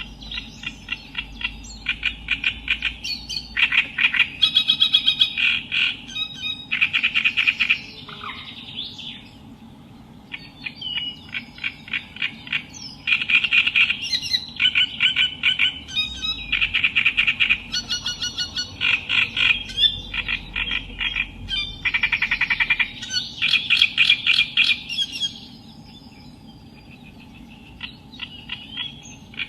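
Reed warbler (Acrocephalus) singing: phrases of rapid, harsh, chattering notes, broken by a pause about a third of the way in and another near the end, over a faint steady hum.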